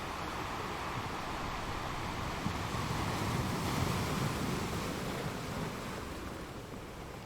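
Ocean waves breaking and washing ashore: a steady surf rush that swells to a peak about halfway through and then eases off.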